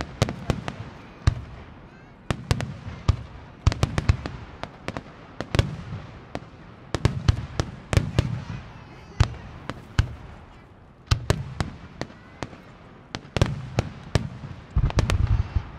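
Aerial fireworks shells bursting in quick, irregular succession, sharp bangs often several a second, each trailed by a low rumble. The bangs come in a denser, louder cluster near the end.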